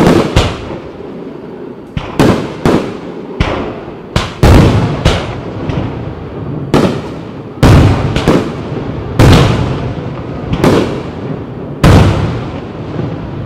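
Fireworks bursting overhead in quick succession: over a dozen sharp bangs at uneven intervals, each trailing off in a rolling echo.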